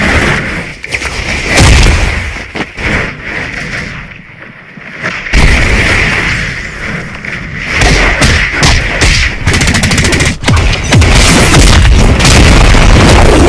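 Loud, distorted booms and rapid cracking bursts, quieter for a moment about four seconds in, then louder and denser from about five seconds in.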